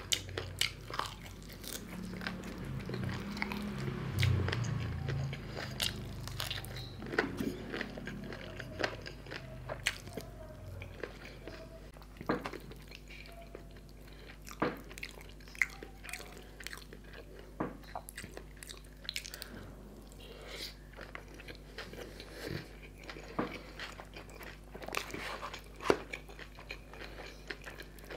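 Close-miked eating: a man biting and chewing a fried chicken leg and then Schezwan fried noodles, with many short crunchy and wet mouth clicks. The chewing is loudest for a few seconds near the start.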